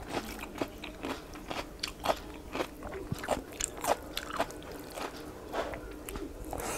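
Close-up chewing and mouth sounds of a person eating rice and curry by hand: a string of short, irregular clicks, about two a second.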